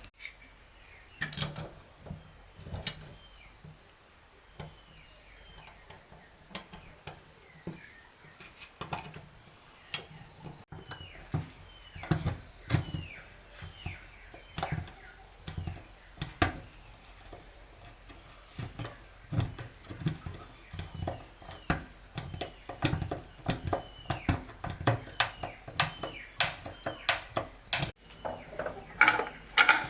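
Irregular knocks and taps of hand tools on wood, coming more often and louder in the second half, with short falling bird chirps in between.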